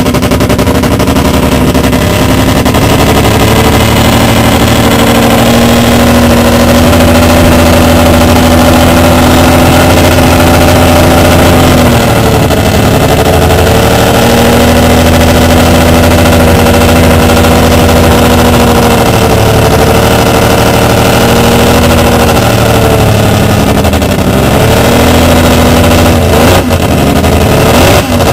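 Mazda rotary engine of a 1985 Fuji Grand Champion-spec racing car, extremely loud, held at raised revs on a steady note. It drops back twice, about twelve and twenty seconds in, and is blipped up and down near the end.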